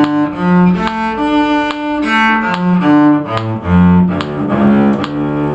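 Cello playing a melody of bowed notes about half a second each, stepping up and down in pitch. A sharp click sounds at regular intervals under the notes.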